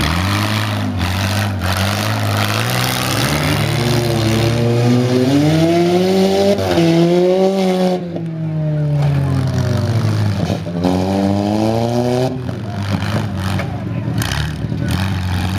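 Demolition-derby minivan and mini-truck engines revving hard, their pitch rising and falling again and again over a steady engine drone, with a couple of sharp knocks about a second in.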